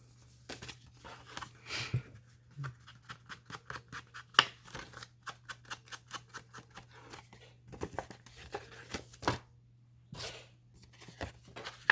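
Paper being handled and worked at a craft table: quick runs of short, dry clicks and snips, with one sharper snap about four and a half seconds in, over a faint steady low hum.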